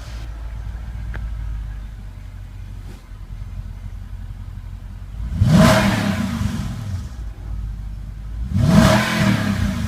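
Mercedes GL550's V8 idling through a Brabus exhaust and blipped twice, about five and a half seconds in and again near the end, each rev rising quickly and dropping back to a low idle.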